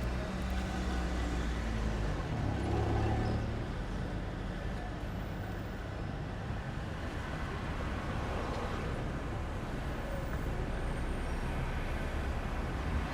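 Low hum of a motor engine running close by, fading after about three or four seconds, over steady outdoor background noise.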